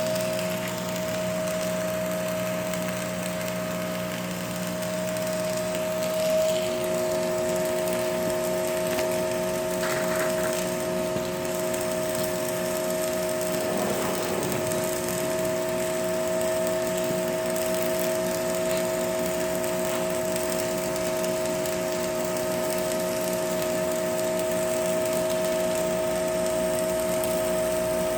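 A machine running steadily with a constant hum; a second, lower tone joins about six seconds in.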